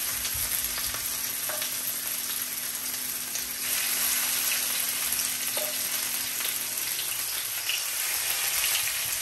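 Chicken breasts sizzling steadily in hot olive oil in a pot, with light spitting crackles, just after being laid in to fry.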